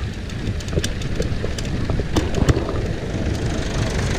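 Mountain bike (Trek Fuel EX) rolling over a dirt trail: a steady low rumble of wind and tyre noise on the action-camera microphone, with scattered clicks and knocks from the bike.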